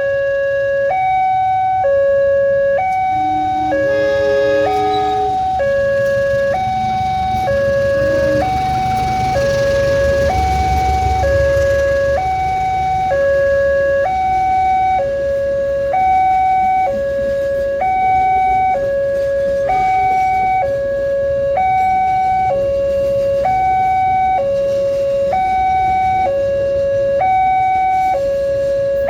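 Railway level-crossing warning alarm sounding a steady electronic two-tone hi-lo, switching pitch about once a second. A low rumble swells about ten seconds in.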